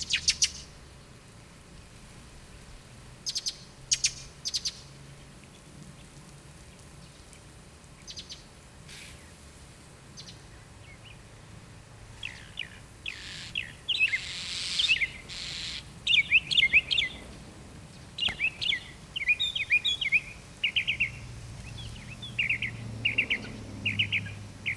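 Small birds chirping, scattered calls at first, then quick runs of high chirps coming thick and fast through the second half. A brief hiss about halfway through.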